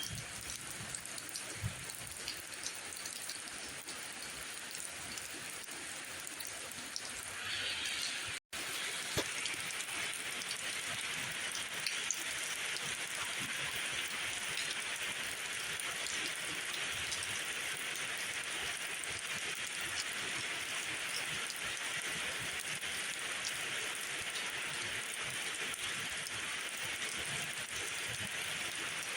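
Steady rainfall, a dense even patter that grows louder about a quarter of the way in, broken by a split-second cut-out just after.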